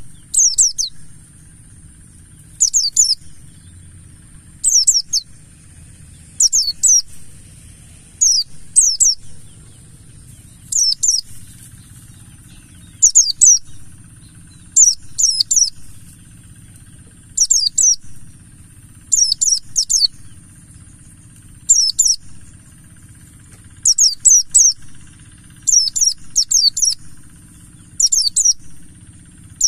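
Buxtoni white-eye (pleci) singing: short, high twittering phrases of quick downslurred notes, repeated about every two seconds. Under it runs a steady high hiss and a low hum.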